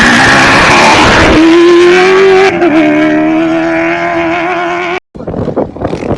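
Rally competition vehicle engine running at high revs, very loud and close, its pitch holding nearly steady with small wavers. The sound changes abruptly twice, as from clip edits.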